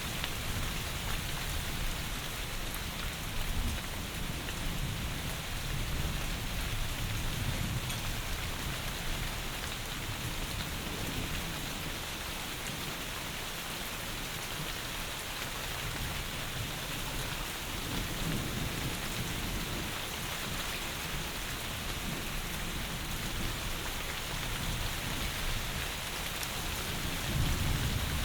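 Heavy rain falling steadily, with low rumbles of distant thunder swelling and fading, the strongest starting near the end.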